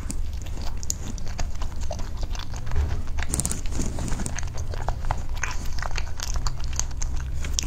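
A person biting and chewing a soft cream cake, picked up close on a lapel microphone: a steady run of small mouth clicks and smacks.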